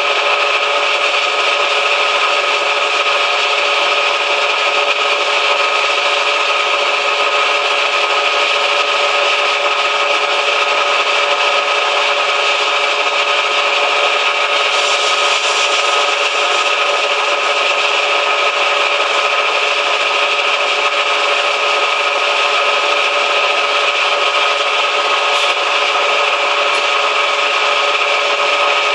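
Manual lathe running steadily, a continuous hiss over a constant hum.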